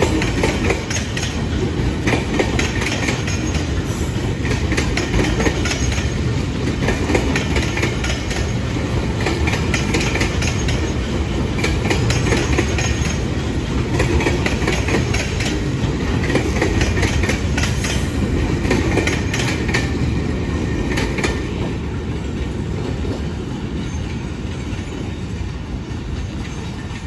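Railway cars rolling past at close range: a steady rumble of wheels on the track with rapid clicking over the rail joints. The sound fades over the last few seconds as the train moves away.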